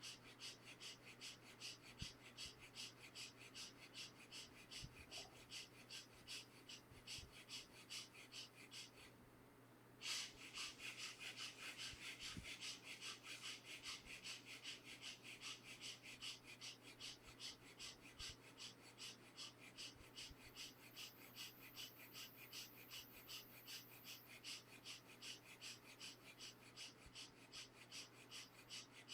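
A person doing rapid, forceful breathing through the nose, quick short breaths in a steady fast rhythm, as in a breathing meditation exercise. The breaths pause for about a second around nine seconds in, then resume louder.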